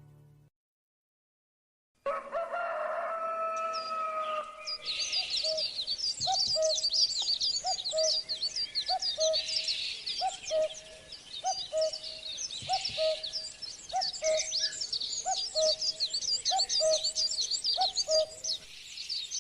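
Bird chorus: many high, rapid chirps, one long drawn-out call near the start, and one bird repeating a short lower note about once a second.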